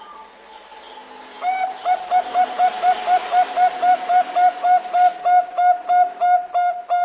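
Zebra dove (perkutut bangkok) calling a fast run of short, repeated cooing notes, about four or five a second, starting about a second and a half in.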